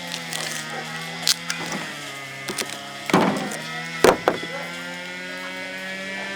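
A small electric motor humming steadily. Its pitch sags for about a second, as if loaded, then recovers, with several sharp knocks and clacks in the middle, the loudest about three and four seconds in.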